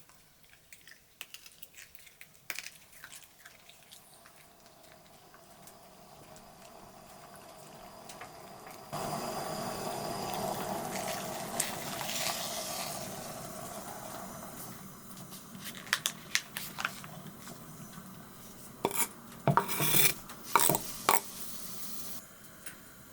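Kitchenware being handled: dishes and metal utensils clinking and scraping. About nine seconds in a steady hiss starts suddenly and fades out over several seconds, and a run of sharp clinks follows near the end.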